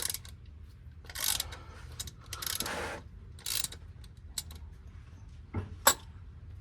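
3/8-inch ratchet clicking in short runs while backing out a transfer case fill plug, followed by a few single sharp metal clicks near the end.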